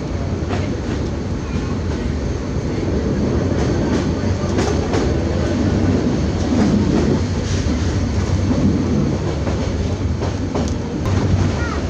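Moving passenger train: a steady low rumble of wheels on the track, with scattered sharp clicks and knocks from the wheels and carriage.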